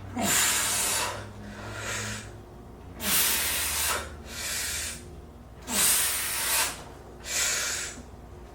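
A man breathing hard through his mouth: four strong, noisy exhales about every two and a half to three seconds, each followed by a shorter, softer intake of breath. This is the breathing of heavy exertion during a set of lifting reps.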